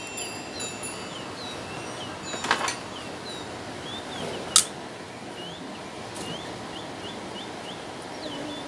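A small bird chirping repeatedly in short hooked chirps, quickening near the end, over a steady background hiss. There are a few clicks from pliers and plastic switch parts being handled, the sharpest about four and a half seconds in.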